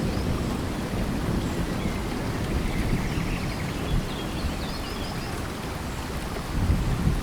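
Steady rain falling in a tropical forest, with a strong low rumble under the patter and a few faint high chirping calls.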